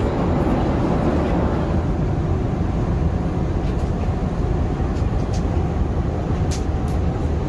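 Steady rushing rumble of an Airbus A380 cabin in flight, engine and airflow noise, with a few faint clicks about two-thirds of the way through.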